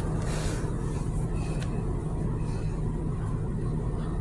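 Steady low rumble heard from inside a car in a car wash tunnel, with a brief hiss of the spot-free rinse water spray in the first second.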